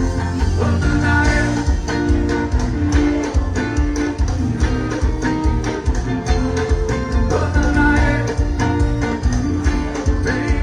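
Live axé band playing loud through a trio elétrico's sound system: heavy bass, a dense steady beat and electric guitar, between sung verses.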